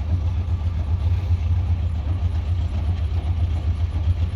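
GMC Sierra 1500 pickup's engine idling with a steady low rumble.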